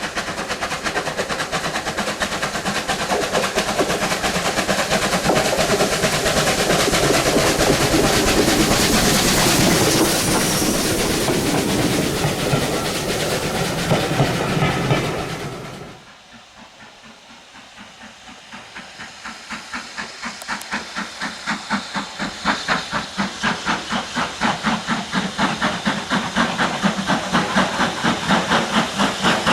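Steam locomotive and its train passing close by with loud hiss and rail clatter. After a sudden cut, a steam locomotive's exhaust beats come in a steady rhythm, about two a second, growing louder as it works nearer.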